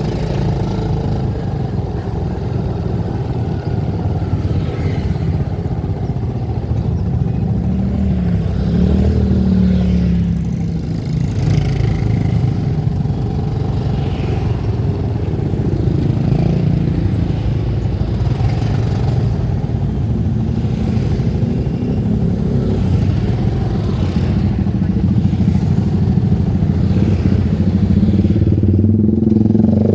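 Motor vehicle engine running steadily while travelling along a road, its pitch shifting a little with speed.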